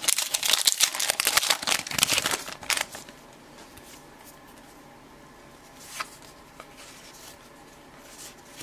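Baseball card pack wrapper crinkling and tearing as the pack is opened, for about three seconds, then a couple of faint clicks as the cards are handled.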